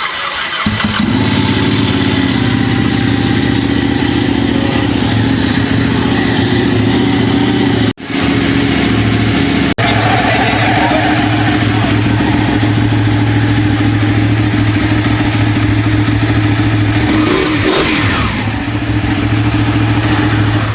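Ducati Panigale 899's 898 cc twin-cylinder engine on its stock exhaust, firing up and settling into a steady idle. The pitch dips and comes back once, briefly, near the end.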